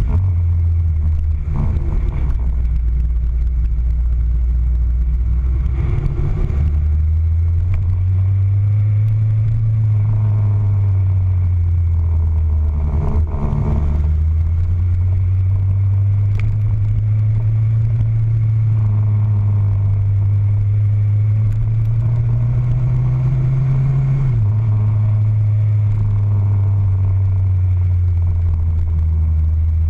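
Motorcycle engine running under way, its note rising and falling as the throttle opens and closes through the bends. There are short breaks in the note about one and a half, six and thirteen seconds in, and a sudden drop in pitch about 24 seconds in.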